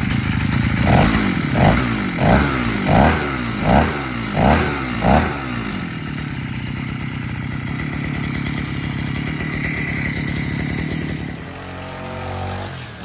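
Cateye pocket bike's new 49cc two-stroke engine being revved in seven quick blips, then running steadily; it has a lumpy note that the owner says sounds like it has a cam. The running note drops lower near the end.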